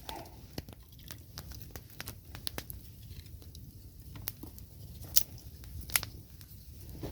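Thin willow sticks clicking and knocking as they are laid side by side in a row, with light rustling between; a few sharper knocks stand out, the loudest about five and six seconds in.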